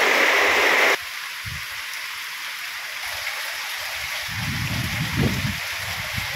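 Steady rain falling, an even hiss, after a louder sound cuts off abruptly about a second in. A low rumble rises under the rain for about a second partway through.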